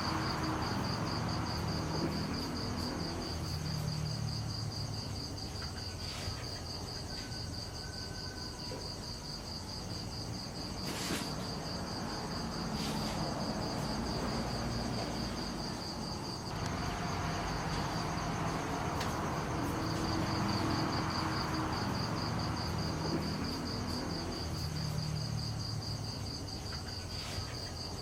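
An insect trilling in a fast, pulsing high tone. It stops for several seconds in the middle, then starts again. There are a few faint knocks.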